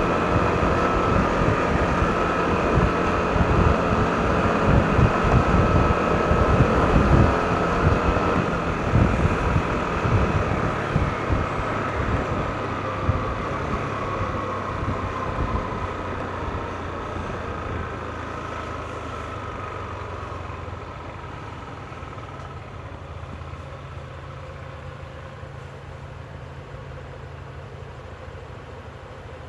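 Yamaha NMAX scooter riding, its engine and drive whine under gusty wind buffeting on the camera microphone. From about halfway the sound steadily dies down as the scooter slows, the whine fades out, and a quieter steady low hum is left near the end.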